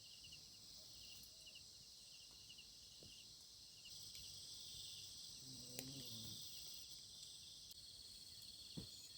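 Faint, steady trilling of night insects such as crickets, a high, rapidly pulsing chorus with little else heard.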